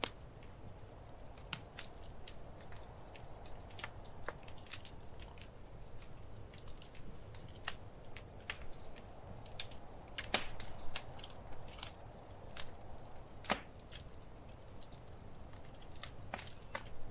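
Wood fire crackling in a fireplace: irregular sharp pops and snaps over a soft, steady rush of flame, with a couple of louder pops about ten and thirteen seconds in.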